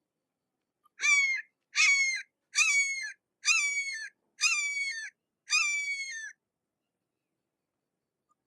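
A hawk calling six times in a steady series, each harsh, high call about half a second long with a short drop in pitch at its end.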